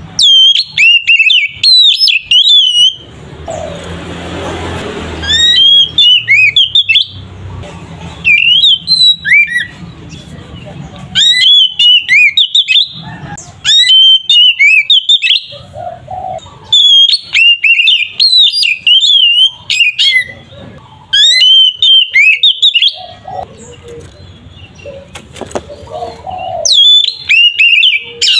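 Oriental magpie-robin (kacer) singing loud, full song: rapid bursts of sweeping, rising and falling whistled notes with short pauses between phrases. A stretch of low background noise sits under the song a few seconds in.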